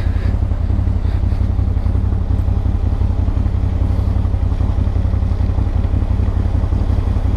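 CFMoto CForce 1000 Overland ATV's V-twin engine running steadily under way, a low even drone with rapid pulsing.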